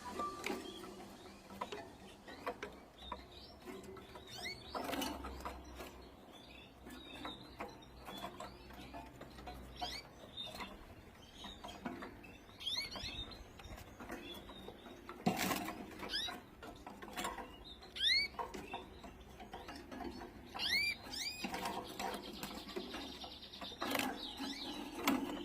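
Canary giving short, scattered upward-sliding chirps, several in quick runs, among frequent light clicks and taps.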